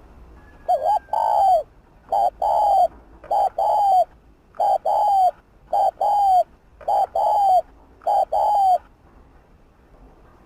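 Spotted dove cooing: seven two-part coos, each a short note followed by a longer note that falls away at its end, about one every 1.2 seconds.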